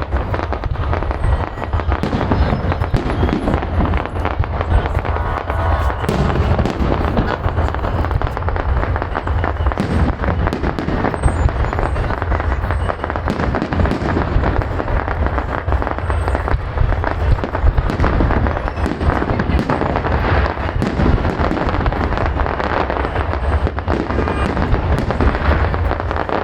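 Fireworks salute: a dense, continuous barrage of bangs and crackles with no pauses.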